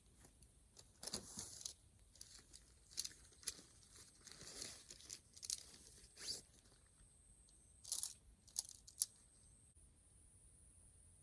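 A series of about a dozen short, crisp handling noises at irregular intervals, like something being torn, crinkled or snapped by hand. The sharpest comes a little before the end.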